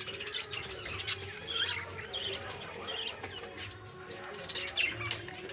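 Pet lovebirds chattering: a continuous run of short, sharp chirps and squawks, several birds overlapping, most calls quickly falling in pitch.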